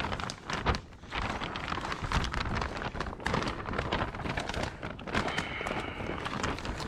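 Plastic vapour barrier sheeting flapping and crackling in strong gusty wind, with rapid irregular crackles over a rush of wind on the microphone.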